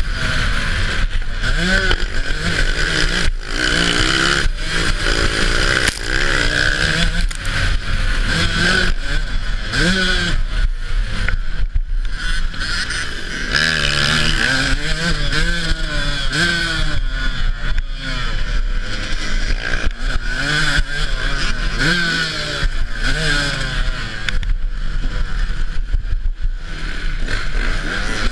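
Dirt bike engine revving up and dropping back again and again as it rides a motocross track, with steady wind noise and frequent knocks and clatter.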